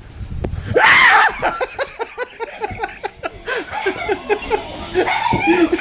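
A person laughing hard in quick, short bursts of "ha", starting with a loud shriek about a second in.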